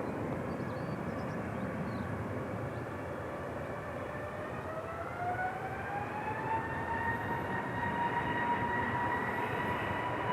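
Jet airliner's engines spooling up for the takeoff roll, most likely the easyJet Airbus just cleared for takeoff. A whine climbs in pitch about halfway through and then holds steady over a broad jet roar.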